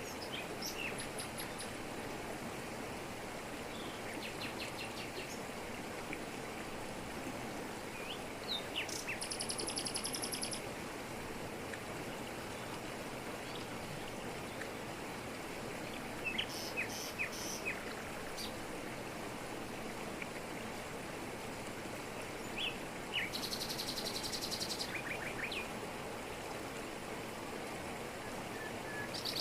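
Jungle waterfall rushing steadily over rocks, with tropical forest birds calling over it: short sharp chirps scattered throughout and two longer high buzzy trills, one about a third of the way in and one near the end.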